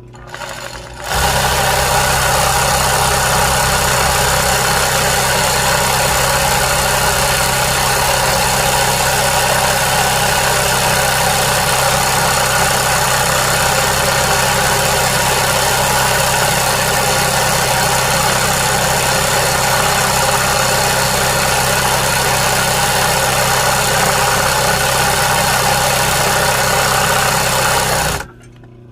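Embroidery sewing machine running steadily at high speed, stitching continuously. It speeds up after a short softer start about a second in and stops suddenly near the end.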